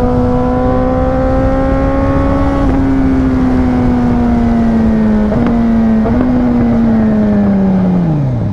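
Yamaha R6 inline-four engine running under steady throttle, with wind and road noise rushing past. Its pitch climbs slightly, then eases down with two brief dips a little past halfway, and falls steeply near the end as the bike slows.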